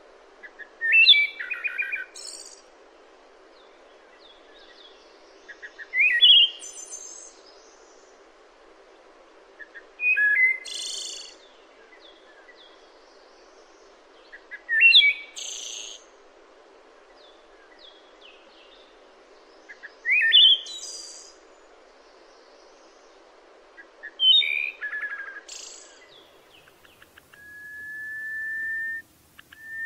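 A songbird singing the same short chirpy phrase about every four to five seconds over a steady low background hiss. Near the end a long, slightly rising whistled tone begins.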